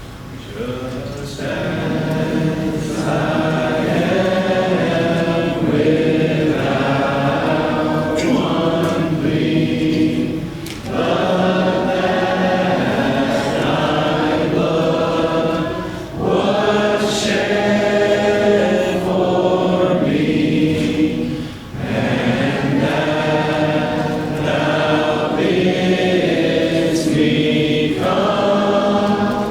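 A church congregation singing a hymn together, many voices in unison and parts, with short breaks between phrases. The singing swells in about a second in.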